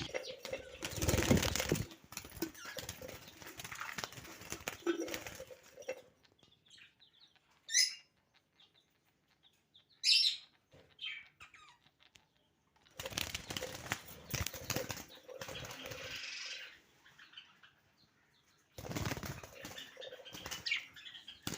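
Hagoromo budgerigars flapping and fluttering their wings in spells of a few seconds. A quieter stretch in the middle holds two short, high chirps.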